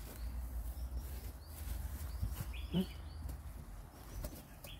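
Small birds chirping repeatedly in the background, short high chirps over a steady low rumble.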